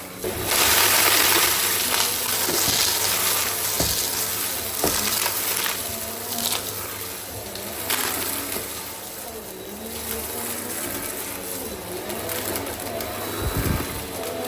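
Goodmans TurboMax vacuum cleaner running steadily, with a few sharp clicks in the first half as debris is sucked up through it.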